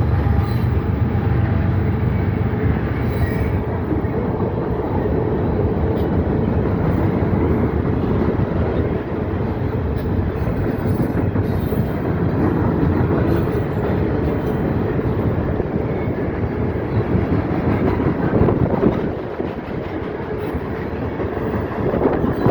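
Freight cars of a CSX train rolling past close by: a steady rumble of steel wheels on the rails with scattered clicks, easing slightly near the end.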